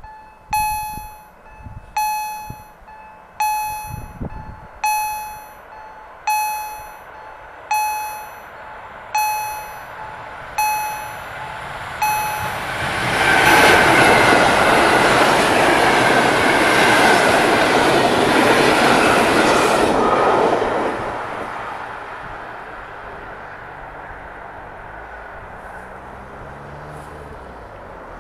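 A level-crossing warning bell dings about once a second and stops after about eleven seconds. Then an EU160 (Newag Griffin) electric locomotive and its intercity passenger train pass loudly for about eight seconds, the noise fading to a low rumble.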